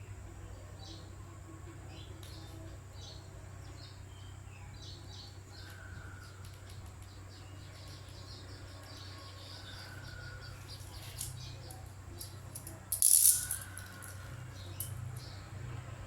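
Small birds chirping repeatedly over a steady low rumble. A brief, loud rushing burst comes about thirteen seconds in.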